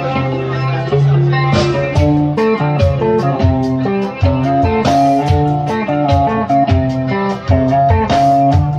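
Live band music: a guitar-led instrumental passage over bass, with regular sharp percussive strikes.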